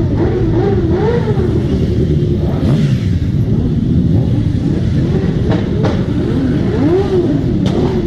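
Several motorcycle engines running and revving together, their pitches rising and falling over one another above a steady low rumble.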